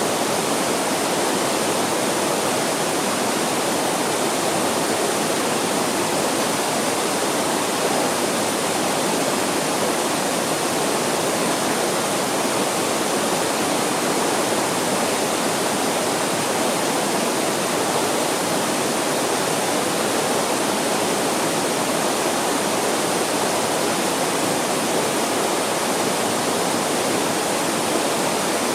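Mountain stream flowing fast, a steady, unbroken rush of water.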